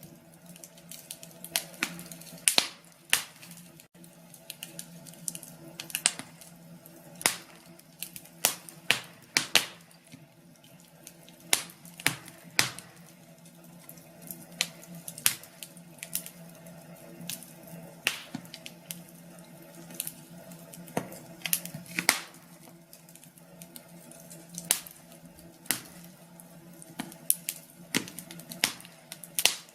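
Wood fire in a fireplace crackling: irregular sharp crackles and pops, some clustered and some alone, over a faint low steady hum.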